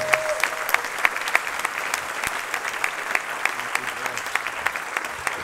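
Audience applauding steadily after a song, with a dense patter of many hands clapping.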